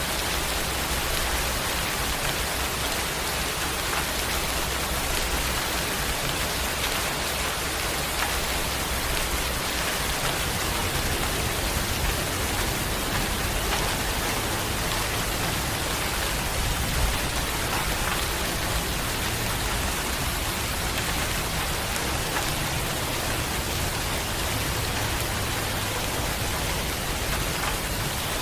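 Steady rain falling on a surface, a dense even hiss with the odd louder drop.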